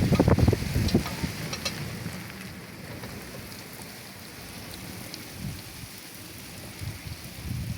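Rain falling steadily. A louder low rumble fills the first second or so, then the rain goes on evenly with a few light drip-like ticks.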